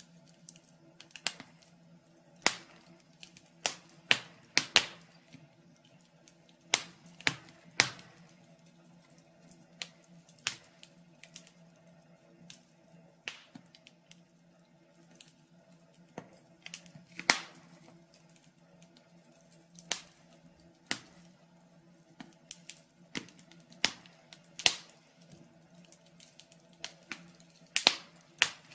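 Wood fire crackling in a fireplace: irregular sharp pops and snaps of burning logs, some much louder than others, over a faint steady low hum.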